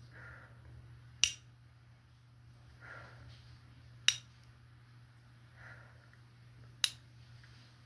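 Three sharp snaps, evenly spaced about three seconds apart. Between them come soft whooshes, over a steady low hum.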